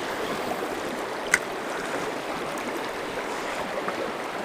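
Fast river water rushing steadily over rocks, with one sharp click about a second and a half in.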